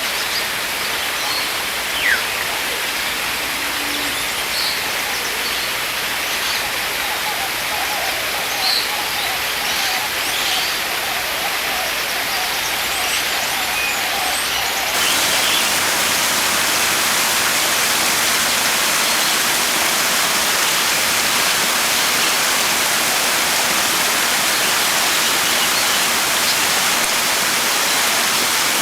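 Steady rushing noise with scattered short, high bird chirps through the first half. About halfway through the noise steps up louder and brighter, then holds steady.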